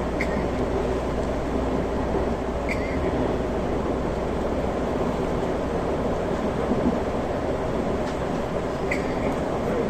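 Steady running rumble inside a moving 383-series Limited Express Shinano train, with a few brief high squeaks at the start, about three seconds in and near the end.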